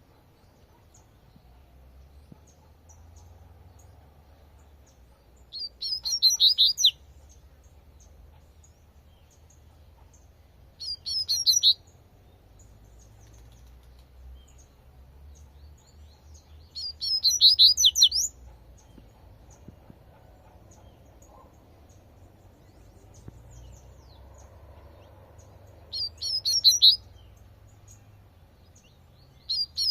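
Double-collared seedeater (coleirinho) singing its 'tui tui' song: short phrases of rapid, high notes, each about a second long, repeated four times with gaps of several seconds, a fifth phrase beginning at the very end.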